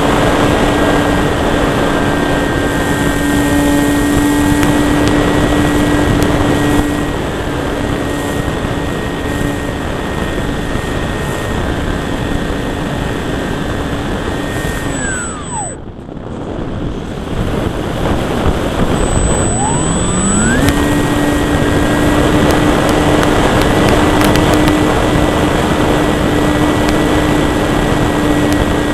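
Electric motor and propeller of a Durafly Cessna 182 RC model plane running at high throttle, heard up close from the cowl with wind rushing over the microphone. About fifteen seconds in, the motor's pitch falls away as the throttle is cut. A few seconds later it climbs back up and holds steady again.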